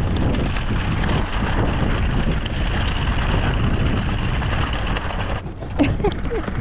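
Wind buffeting the microphone: a dense, fluttering rumble that eases briefly about five and a half seconds in.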